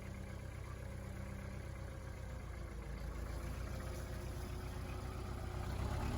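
An engine idling steadily, growing slowly louder.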